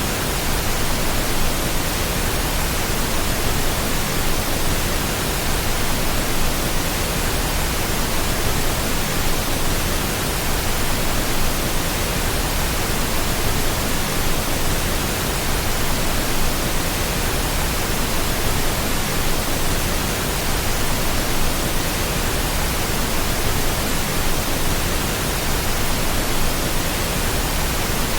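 Steady, unchanging pink noise: an even hiss spread across all frequencies, with no breaks or events.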